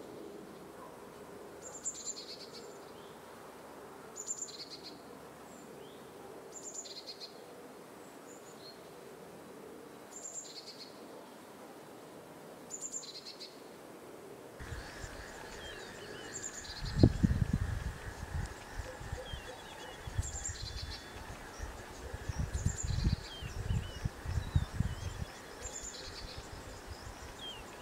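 A bird repeats a short high call of two quick notes about every two seconds. About halfway through, the background changes: a steady high hum and irregular bursts of low rumbling come in, the loudest soon after the change.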